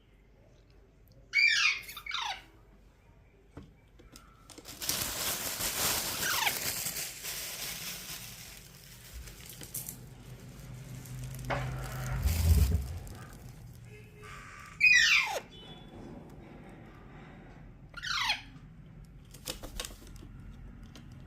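A parrot giving short, squeaky squawks, each falling sharply in pitch, about four of them spread out. A stretch of noise fills the gaps between the calls.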